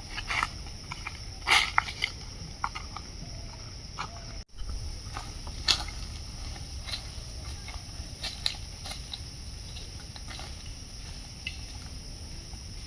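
Forest ambience: a steady, high insect drone, with scattered light clicks and rustles and a brief drop-out about four and a half seconds in.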